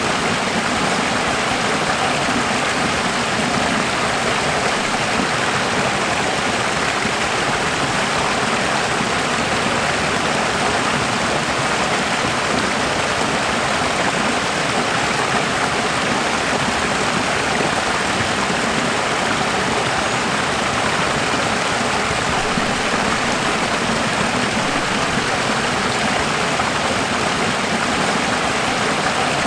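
Running water: a steady, even rush of flowing water, unchanging throughout.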